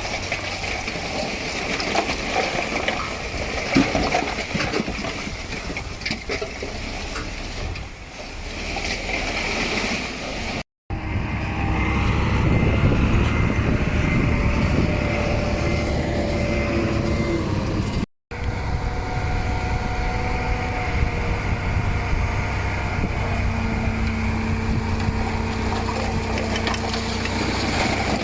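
Heavy diesel earthmoving machinery, a bulldozer and dump trucks, running and working, with knocking and clatter in the first part and a steadier engine drone later. The sound breaks off briefly twice, about eleven and eighteen seconds in.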